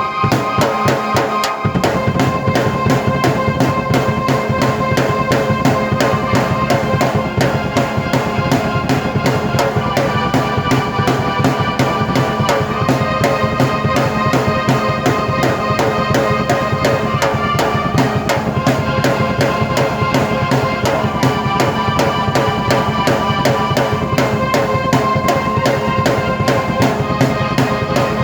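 Drum kit played in a fast, steady rhythm of dense bass drum and snare hits together with held keyboard chords. The low end fills out about two seconds in.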